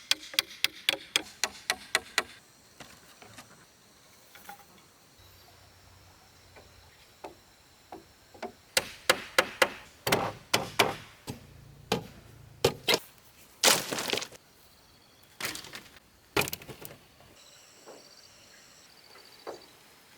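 Hammer blows on wood, the kind heard nailing formwork boards together: a fast run of about five strikes a second at the start, then scattered strikes and short clusters later, with quiet lulls between.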